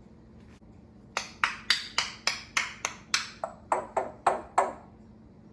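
A quick, even run of about a dozen sharp, ringing taps, roughly three a second, starting about a second in and stopping after some three and a half seconds.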